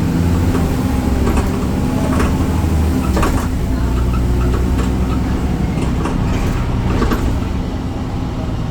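Inside a BredaMenarini Avancity Plus city bus under way: its Deutz Euro 5 diesel engine drones steadily. Several short knocks and rattles from the bus body come through over the engine.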